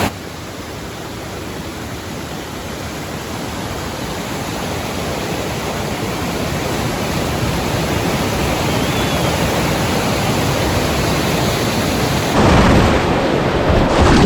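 Steady rush of river rapids, growing slowly louder, with a stronger, deeper surge of rushing water near the end.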